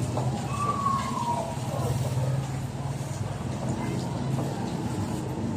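A steady low machine hum with a brief high whistle that falls in pitch about a second in, over faint voices.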